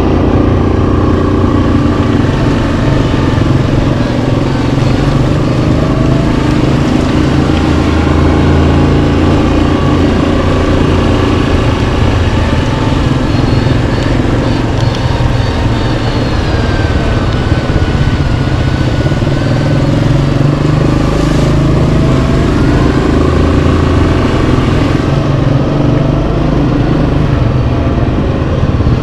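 Yamaha Kodiak 700 ATV's single-cylinder engine running steadily while riding, the revs drifting up and down a little.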